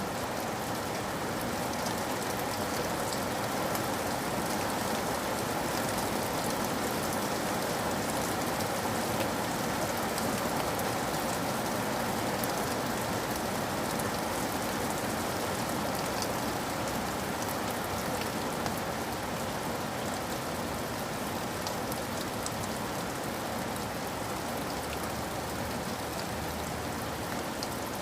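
Steady rain falling, with many fine ticks of individual drops over an even hiss.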